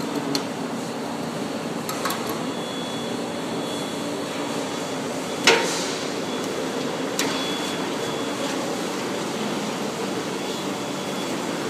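Hook-and-loop tape pressing and bonding machine running with a steady hum, with four sharp knocks as it works, the loudest about halfway through.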